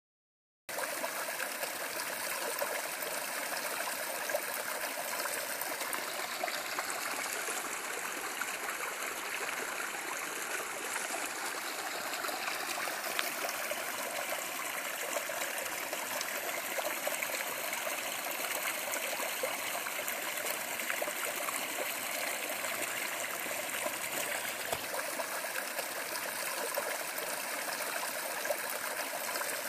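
Stream water rushing, a steady even flow that starts abruptly just under a second in.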